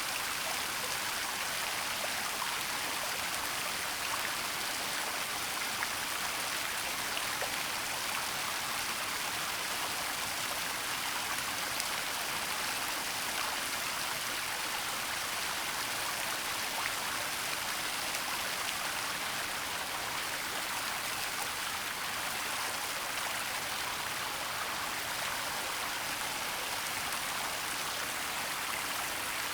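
A waterfall and its stream rushing steadily, an even hiss of falling and running water with no change in level.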